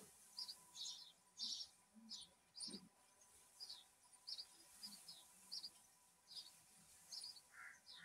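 A small bird chirping faintly and repeatedly, short high chirps about two a second.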